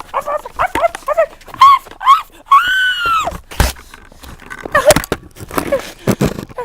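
A small dog whimpering and yipping: a string of short, high, pitched cries, with one longer whine about three seconds in. Several sharp knocks are mixed in.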